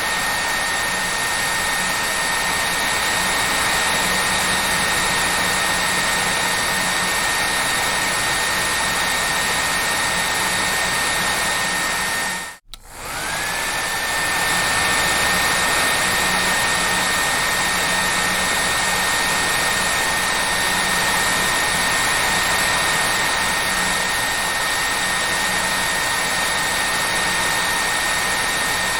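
Hair dryer running steadily: a loud rushing blow with a steady high whine. About halfway through it cuts out for a split second, then comes back, the whine rising back up to pitch.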